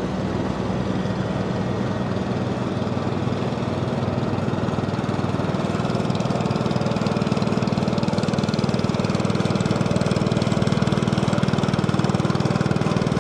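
An engine running steadily at an even speed, with a fast, regular firing flutter, getting a little louder about halfway through.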